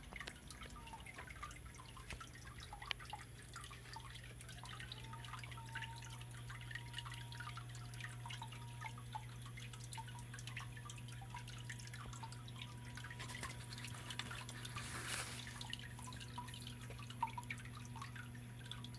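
Water from the small waterfall of a stone biotope pond dripping and trickling over rocks, in many small scattered drips, over a steady low hum.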